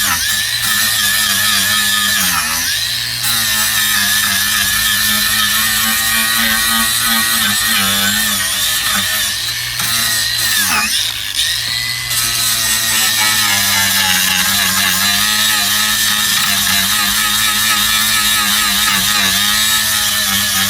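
Angle grinder running steadily against the car's sill, cleaning back the damaged steel, its motor pitch dipping briefly twice as it is pressed into the work, about two and a half seconds in and again around eleven seconds.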